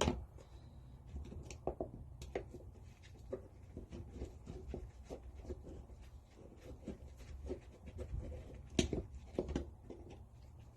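Scattered light clicks and taps of hand tools and small metal parts as a cover is fastened back on, the loudest knocks about nine seconds in, over a steady low hum.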